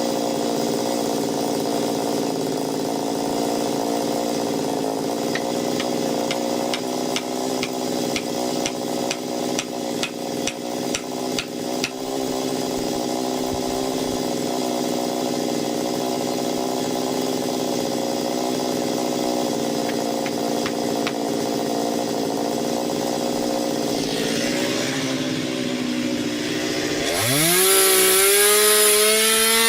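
Small chainsaw with a 15-inch bar running under load, cutting into an ash trunk with a steady engine note. A run of regular clicks, about two or three a second, comes in partway through. Near the end the engine revs up to a much higher pitch and then sags again.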